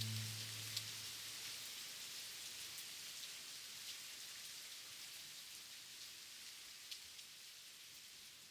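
Rain falling in a steady hiss with scattered individual drop taps, slowly fading out. The last held low notes of an ambient electronic track die away in the first second.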